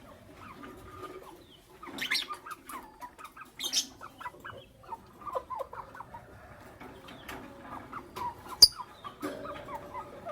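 Lovebirds, a green Fischer's and a pastel blue, chirping and chattering in short, scattered calls mixed with small clicks. There is one loud sharp click about eight and a half seconds in.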